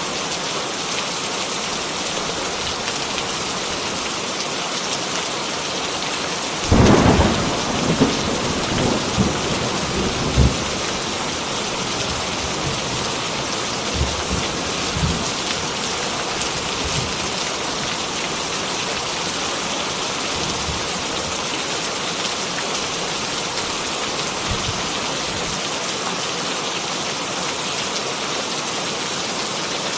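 Heavy rain falling steadily. About seven seconds in, a sudden crack of thunder is followed by low rolling rumbles that die away over several seconds, with a few fainter rumbles later.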